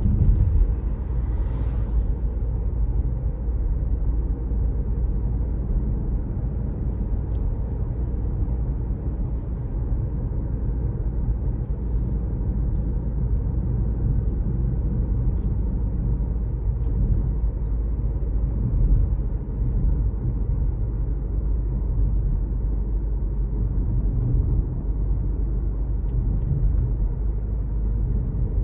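Car driving along a road: a steady low rumble of engine and tyres, with a few faint clicks.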